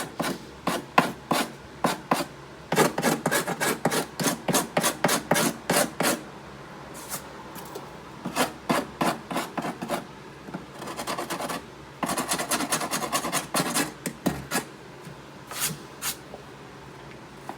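Quick back-and-forth rubbing strokes on a desk's surface as it is wiped clean by hand. The strokes come in runs of about three a second, broken by short pauses.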